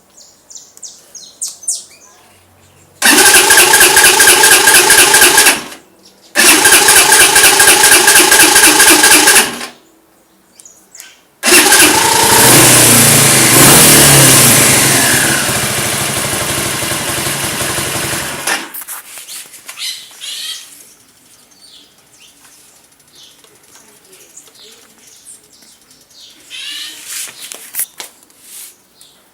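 Dafra Kansas 150 motorcycle's electric starter cranking the engine in two bursts of about three seconds each, with the strange noise on starting that the owner is showing. About eleven seconds in the engine catches, runs for about seven seconds getting gradually quieter, then stops; birds chirp faintly in the pauses.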